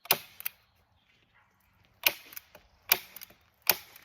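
Hand staple gun firing staples into plastic sheeting on a wooden frame: a sharp snap at the start, then three more about a second apart in the second half.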